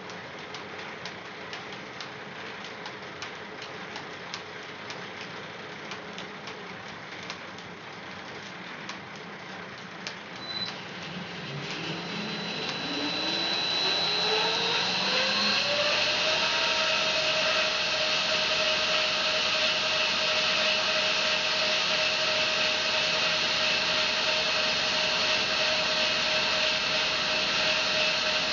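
Home-built bandsaw mill's drive running up to speed. Steady running with frequent clicks, then a rising whine over several seconds from about a third of the way in, settling into a steady high whine at full speed.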